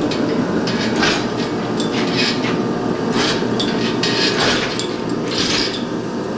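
Engine hoist with an engine hanging from it being rolled across a shop floor: a steady rolling rumble with irregular clanks and rattles about once a second.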